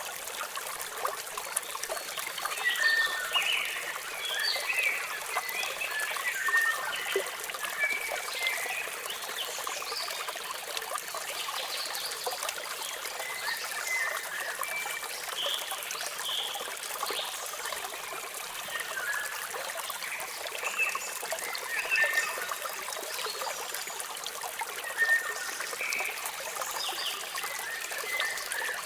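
Waterfall water splashing and trickling steadily, with small birds chirping over it in short, scattered calls that come in clusters.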